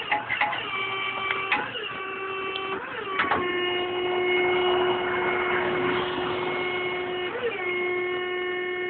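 Electric-hydraulic pump motor of a tow truck's wheel lift whining while it works. Its pitch holds steady, then slides lower about three seconds in and shifts again near the end as the load on the lift changes.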